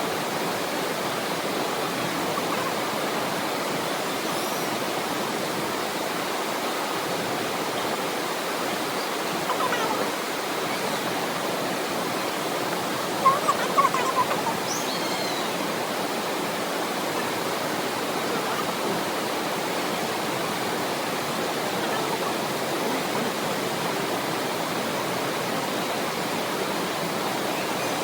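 Waterfall rushing steadily, an even hiss of falling water, with a few brief louder sounds about ten and fourteen seconds in.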